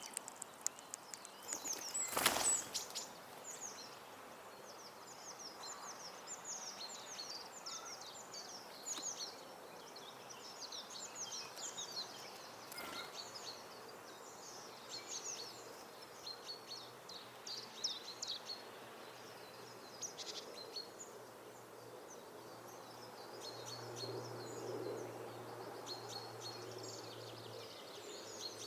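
Small garden songbirds chirping and twittering, a steady stream of short high calls, with one brief loud noise about two seconds in and a faint low hum starting near the end.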